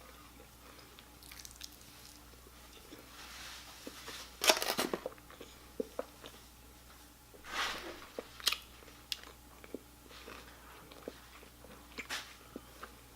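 Close-miked biting and chewing of crunchy fried food, with a loud crunching bite about four and a half seconds in, another about seven and a half seconds in, and scattered small mouth clicks between.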